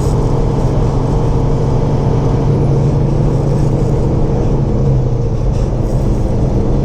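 Semi truck's engine and road noise heard from inside the cab: a steady low hum.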